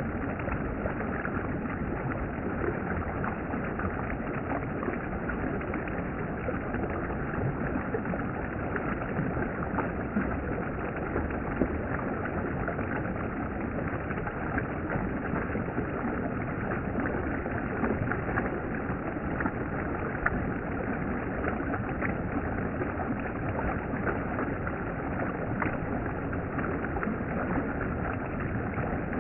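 Valley stream water flowing with a steady rush.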